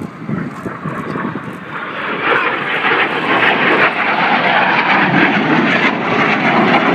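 Jet noise from BAE Systems Hawk T1 jets of the Red Arrows flying past, their Adour turbofan engines giving a broad rushing sound that grows louder about two seconds in and stays loud.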